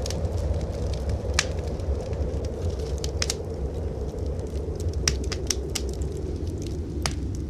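Wood fire in a fireplace crackling, with scattered sharp pops (the strongest about one and a half seconds in and near the end), over a steady low rumble of blizzard wind.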